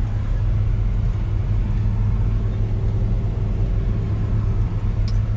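1957 Chevrolet 3100 pickup's 350 V8 engine running at a steady cruise while driving, a low even rumble.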